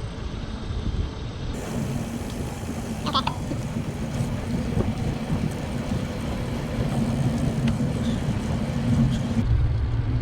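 Low rumbling wind buffeting on the microphone, with a faint steady hum through most of it.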